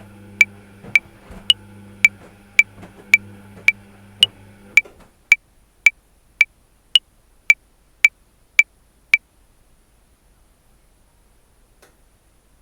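Metronome clicking at 110 beats a minute in 5/4, every fifth click higher-pitched as the accented downbeat. A low steady washing-machine hum runs under the clicks and stops about 5 seconds in; the clicks stop about 9 seconds in, leaving only a faint background.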